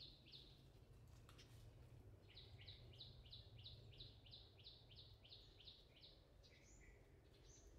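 Faint songbird call: a fast string of short, downward-sliding chirps, about three a second, beginning about two seconds in and stopping about six seconds in, over a faint low rumble.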